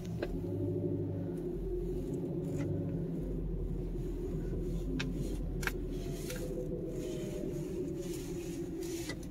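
Subaru Outback's engine running as the car creeps along at low speed, a steady low hum heard from inside the cabin, with a couple of light clicks about halfway through.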